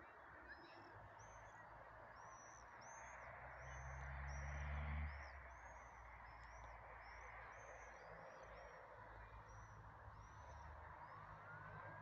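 A small bird calls in a steady run of short, high chirps, roughly one every half second, over a faint steady hiss. A low rumble builds and cuts off suddenly about five seconds in.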